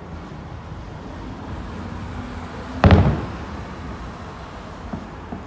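A firework bursting with one loud boom about three seconds in, its rumble trailing off for about a second.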